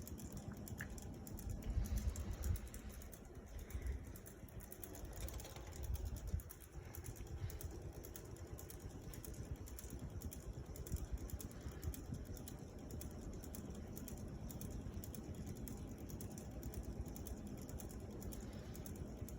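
Litex/Harbor Breeze Calera all-weather ceiling fan running on medium speed: a faint low whir with light rapid ticking.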